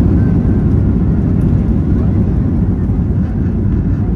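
Steady, loud low rumble inside the cabin of a Boeing 737-8 MAX airliner.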